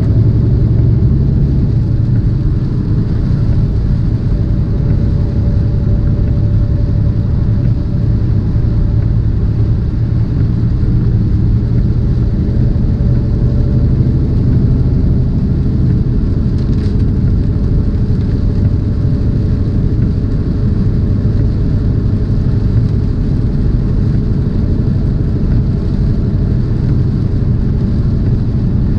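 Steady low rumble of a tractor-trailer's diesel engine and tyre noise, heard from inside the cab while driving.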